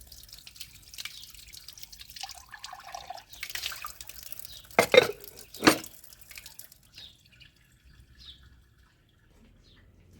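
Water dripping and splashing, with two louder sudden knocks about five and six seconds in.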